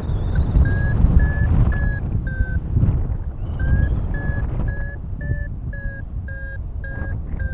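Paragliding variometer beeping about twice a second, with a short pause a little before the middle; the beeps signal that the glider is climbing. Wind buffets the microphone with a steady low rumble.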